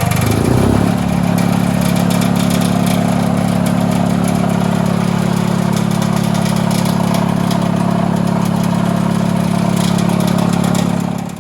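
An old engine running steadily.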